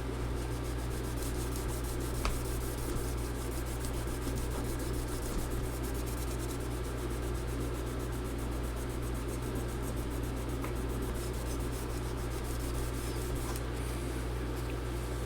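Steady rubbing and scraping as adhesive residue is worked off the MacBook Pro's aluminium case, over a steady low hum.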